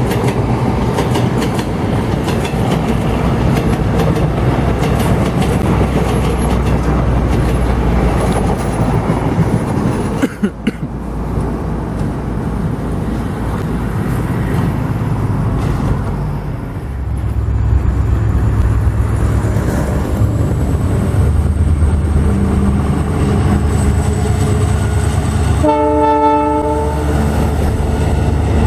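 Indian Railways passenger train running past behind a diesel locomotive: a steady low rumble of wheels and engine. Near the end the train horn sounds once, for about a second.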